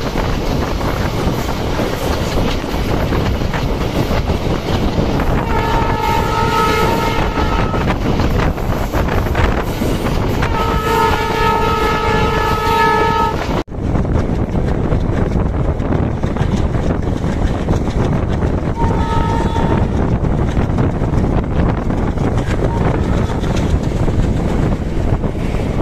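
Passenger train's horn sounding over the loud, steady running noise of the moving train. There are two long blasts, the second about three seconds long, and a short, fainter one later on. The sound cuts out for an instant about halfway through.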